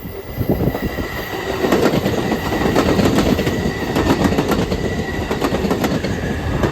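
Passenger train cars rolling past close by: steel wheels clacking rapidly over the rail joints over a steady rumble. A thin, steady squeal from the wheels comes in about one and a half seconds in and fades near the end.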